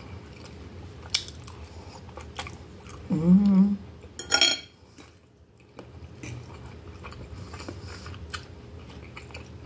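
A person chewing a mouthful of baked instant noodles with melted cheese, with soft mouth noises and small clicks. About three seconds in comes a short hummed "mmm" followed by a brief sharp hiss of breath. Near the end a metal fork scrapes and clinks in a glass bowl.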